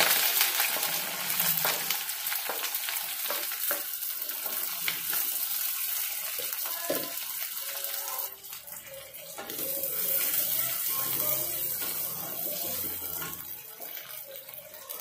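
Chopped shallots and garlic sizzling in hot oil in a clay pot, stirred with a spatula that scrapes and knocks against the pot. The sizzle is loudest just as they go in and drops away briefly about eight seconds in before picking up again.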